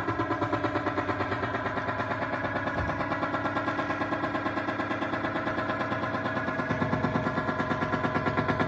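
Electronic sound made from a line drawing: a dense pitched tone pulsing rapidly and evenly, with a fuller low layer coming in near the end.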